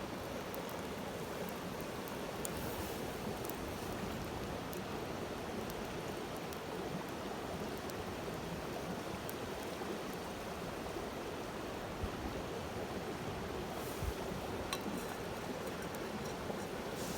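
Steady rushing noise like flowing water, with a few faint ticks.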